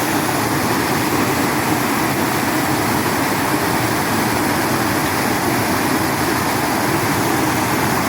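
Steady rushing of river water, loud and unbroken, with no pauses or changes.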